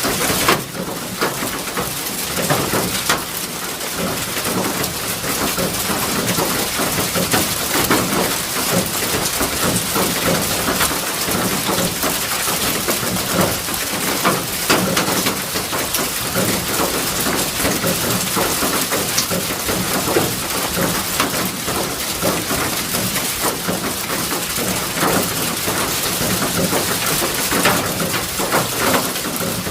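Heavy rain falling steadily, with many separate drop hits.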